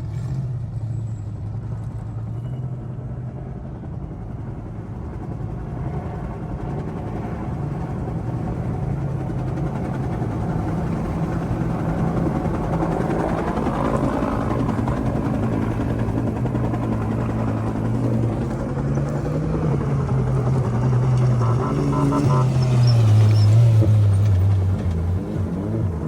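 Heavy engine noise, steady with shifting pitch, getting louder a few seconds before the end.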